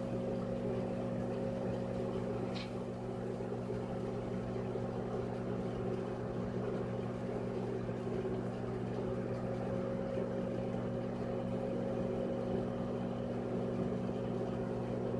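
Microwave oven running on a long cook cycle: a steady, even hum with no change in level.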